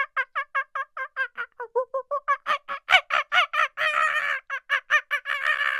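An animal calling in a fast, steady run of short pitched notes, about five a second, growing louder and denser around the middle.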